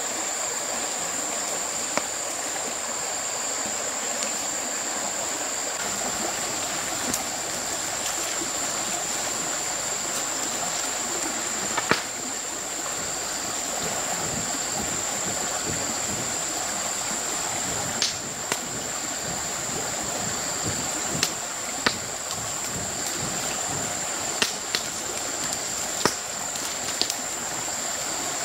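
Steady rush of a flowing stream, with a continuous high-pitched whine over it and scattered sharp clicks or knocks.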